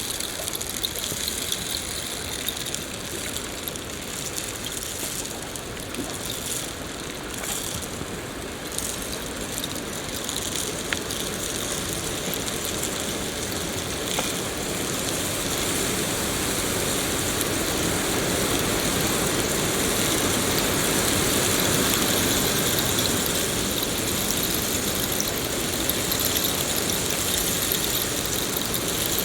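Steady rain: a dense, even hiss of falling drops with scattered faint ticks, growing somewhat louder in the second half.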